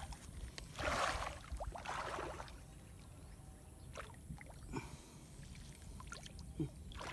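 Two short bursts of water splashing about a second apart, followed by faint scattered clicks and rustles.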